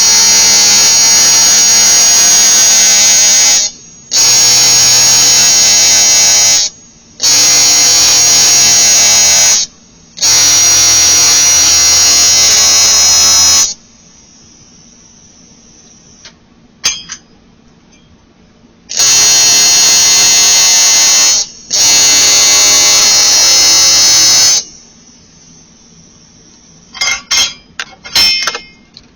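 AC TIG welding arc buzzing on an aluminium cylinder head fin, struck in six runs of about two to four seconds each as weld bead is laid layer upon layer to rebuild a broken fin. A few light metallic clinks near the end.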